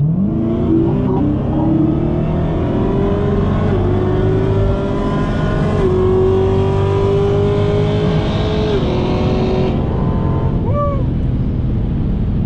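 The supercharged 6.2-litre HEMI V8 of a Dodge Challenger SRT Hellcat Redeye at full throttle from a rolling start, heard from inside the cabin. The engine note climbs sharply at first, then rises through three upshifts at about four, six and nine seconds in, and eases off about ten seconds in. The driver says the car is not shifting that good.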